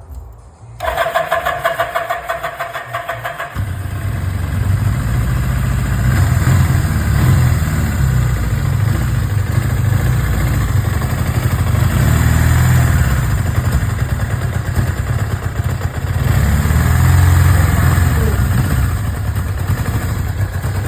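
1982 Suzuki GSX750's air-cooled inline-four cranked on the electric starter for a couple of seconds, then catching and running steadily, its loudness swelling slightly now and then.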